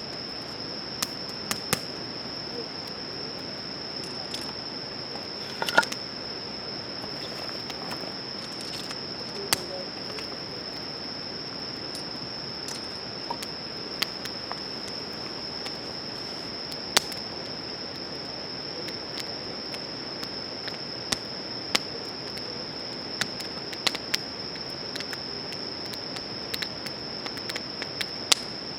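A steady, high-pitched chorus of crickets, with irregular sharp pops and crackles from a wood campfire; the loudest crackles come about six seconds in and again past the halfway point.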